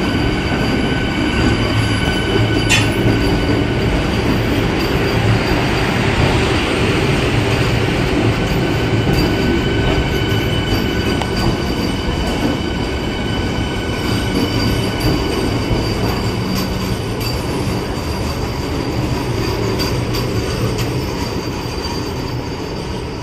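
Vande Bharat Express electric train pulling slowly out past the platform: a steady rumble of wheels on rails with a steady high-pitched whine at several pitches over it. There is one sharp click about three seconds in, and the sound eases off slightly near the end.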